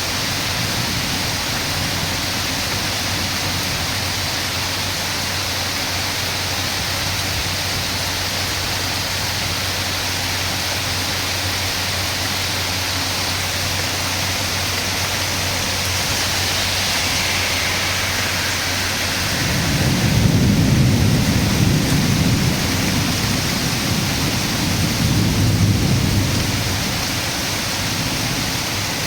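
Heavy rain falling steadily, with thunder rumbling in about two-thirds of the way through and swelling twice before easing.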